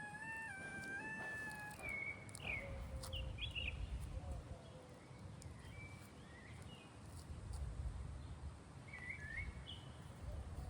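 A cat's drawn-out meow that steps down slightly in pitch and ends about two seconds in, followed by scattered short bird chirps over a low outdoor rumble.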